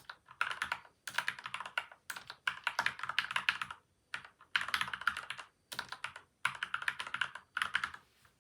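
Typing on a PCL87 mechanical keyboard with lubed linear switches (Gateron milky white / Outemu yellow) and tape and foam mods. Quick runs of keystrokes with short pauses between them, stopping just before the end.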